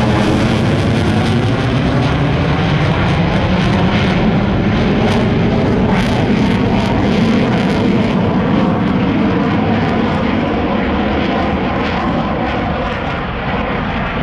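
Military aircraft flying past, its engines a loud, steady rush with a sweeping change in tone as it passes, easing off slightly near the end.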